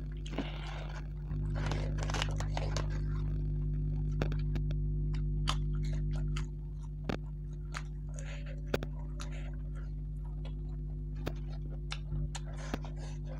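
Close-up eating sounds: crisp papad being bitten and chewed, with many sharp crunches and crackles. A steady low hum runs underneath; it gets louder about a second in and drops back about halfway through.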